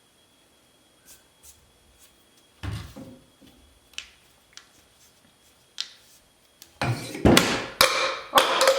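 Scattered light clicks and knocks of parts being handled, then, about seven seconds in, a loud burst of clattering knocks as the tire-installation jig comes off the band saw wheel, leaving the new rubber tire seated in the wheel's groove.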